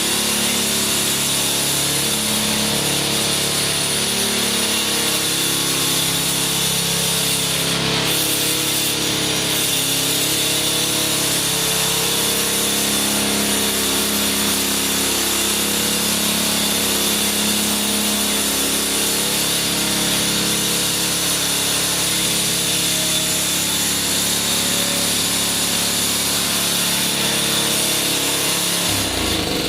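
Ariens AX 208 single-cylinder engine of an Ariens Professional 21 single-stage snowblower running steadily on its rebuilt carburetor. It shuts off and winds down at the very end.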